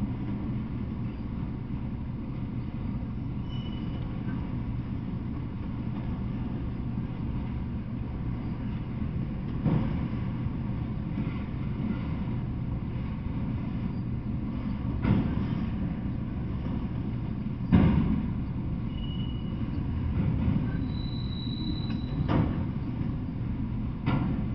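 Freight train of autorack cars rolling past at steady speed: a continuous low rumble, with a handful of sharp clanks every few seconds.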